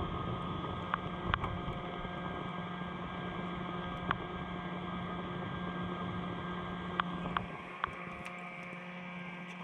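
Wood fire burning, with sharp crackles and pops going off several times over a steady low hum that drops away near the end.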